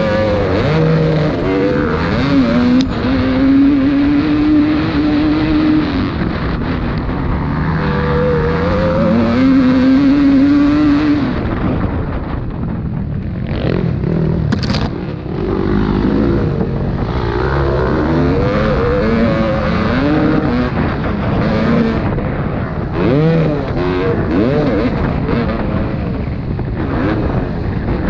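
Motocross bike engines revving hard, their pitch repeatedly rising and falling, with more than one bike heard at times.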